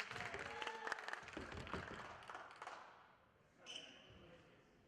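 Basketball play in a gym: the ball bouncing and players' feet knocking and squeaking on the court, busiest in the first half. A brief high squeak comes about three-quarters of the way in.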